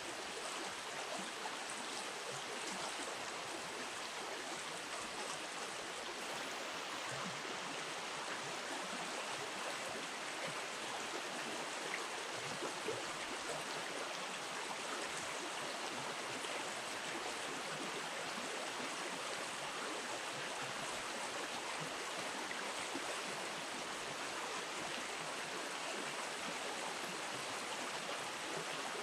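Shallow river water running steadily, an even rushing wash.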